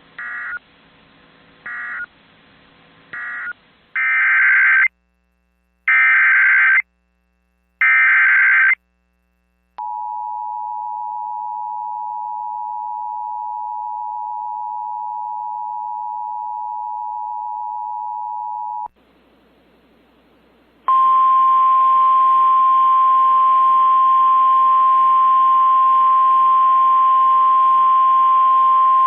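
Emergency alert broadcast tones: three short beeps, then three loud one-second bursts of screeching SAME data header, then the two-note EAS attention signal held for about nine seconds. After a brief gap of static, the single steady NOAA Weather Radio warning alarm tone sounds over hiss, announcing a new warning.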